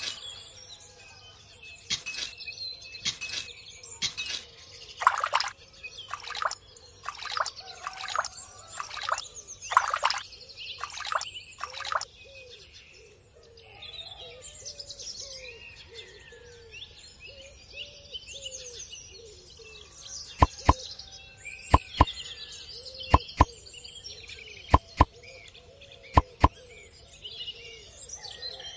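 Small birds chirping and twittering throughout. For the first twelve seconds or so a run of short scraping strokes, a miniature shovel digging in sand, sounds over the birds; later come several pairs of sharp clicks.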